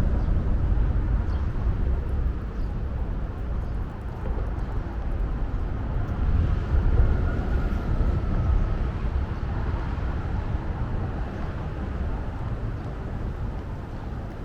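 Outdoor city ambience: a steady low rumble of passing vehicle traffic that slowly fades, with a faint high whine about halfway through.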